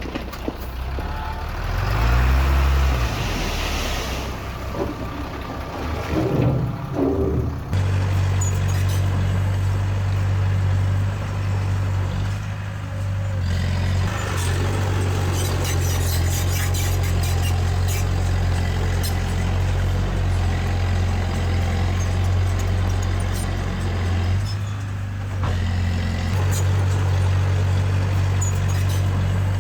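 Diesel engine of heavy earthmoving machinery working. For the first several seconds it is mixed with clattering noise and a brief rise and fall in pitch; from about eight seconds in it settles into a steady low drone, easing off briefly twice.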